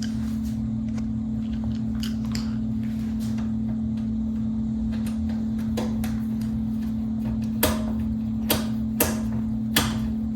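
Light clicks and taps from fitting screws to a box fan's grill, with four sharp clicks close together in the last few seconds, over a steady low hum.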